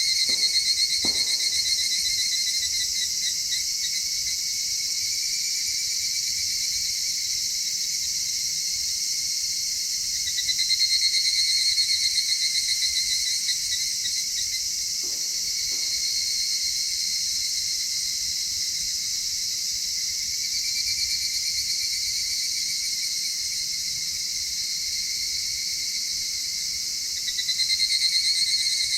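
A chorus of insects chirping, several pulsed trills at different high pitches layered together. One singer swells louder for a few seconds at a time, near the start, again about ten seconds in, and near the end.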